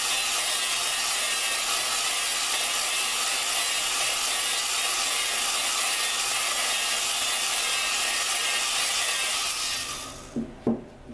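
Drill spinning a Dodge 4.7 engine valve against its seat with lapping compound between them: a steady gritty grinding of the compound's grains working the seat. The grinding stops about ten seconds in, followed by two short knocks.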